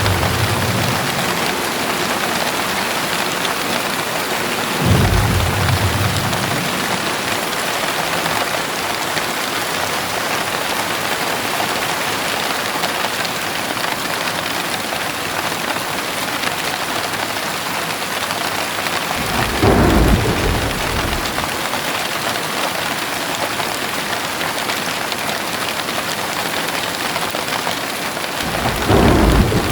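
Heavy rain pouring steadily, with short low rumbles of thunder about five seconds in, around twenty seconds in, and again near the end.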